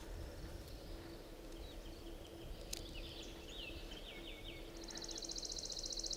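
Small songbirds calling faintly: a few short, high, falling chirps, then a rapid high trill of evenly repeated notes that starts near the end.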